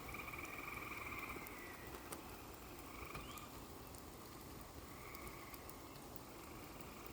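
Frogs calling in trills during light rain: several trills come and go every second or two, the longest near the start, over a steady soft hiss of rain with a few faint drip ticks.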